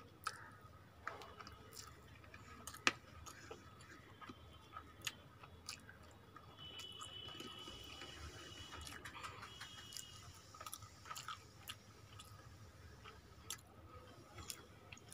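Soft chewing and mouth sounds of someone eating a mouthful of rice by hand, with scattered small clicks as her fingers mix rice on the plate; the sharpest click comes about three seconds in.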